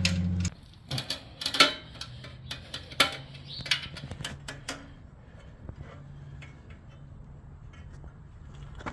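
Irregular sharp metallic clicks and taps of a hand tool working a clamp screw on a motorcycle exhaust, busiest in the first half and sparser later. A low steady tone cuts off about half a second in.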